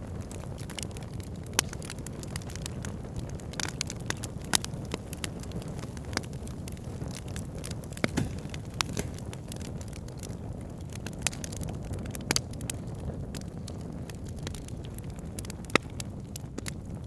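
Fire burning in a fireplace: a steady low rumble of flames with frequent sharp crackles and pops, a handful of them louder than the rest.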